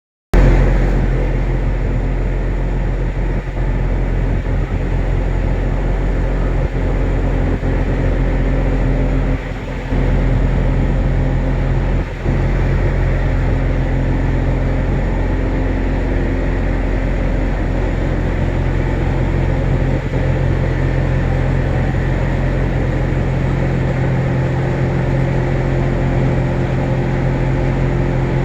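Boat engine running steadily, heard from on board, with two brief dips about ten and twelve seconds in.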